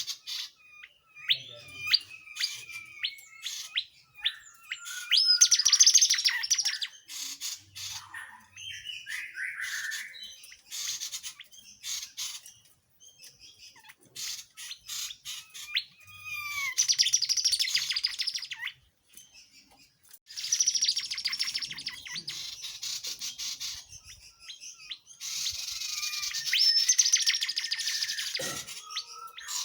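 Tledekan jati songbird singing a varied song: short whistled notes and glides, broken by loud, fast chattering trills of about two seconds each, several times.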